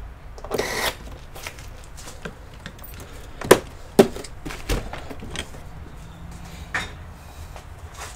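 Computer parts and tools being handled during disassembly: a short scrape about half a second in, then scattered sharp knocks and clicks, the two loudest about half a second apart near the middle.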